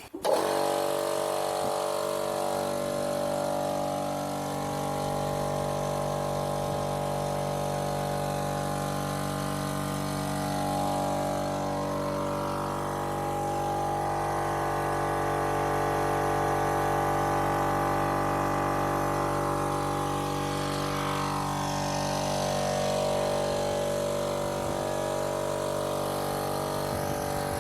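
A small engine or motor runs steadily at an even pitch, which dips briefly about three quarters of the way through.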